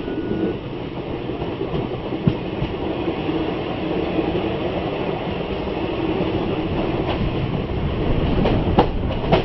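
Express passenger train running on the rails, heard from aboard: a steady rumble of wheels on track with a few sharp clicks, most of them near the end, getting a little louder towards the end.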